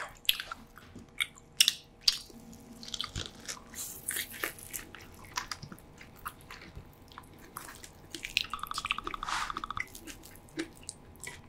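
Close-miked biting and chewing of thick chunks of roasted pork belly with a pepper crust: irregular wet smacks, clicks and squishes, busier near the end.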